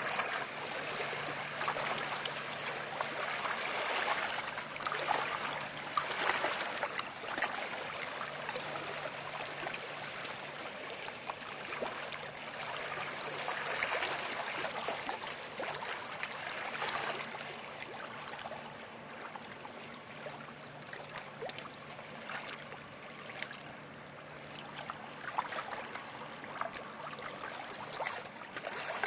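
River water splashing and washing, swelling and fading every few seconds, over a steady low hum.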